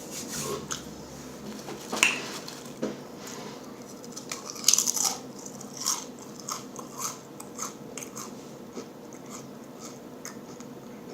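A person biting and chewing food close to the microphone, with irregular crisp crunches, the loudest about two seconds and nearly five seconds in.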